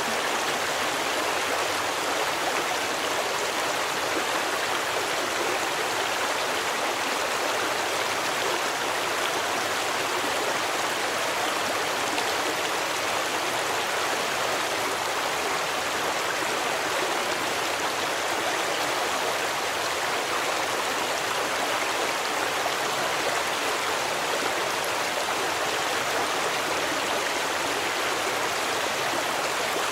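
A forest stream running steadily over rocks, an even rush of water with no breaks.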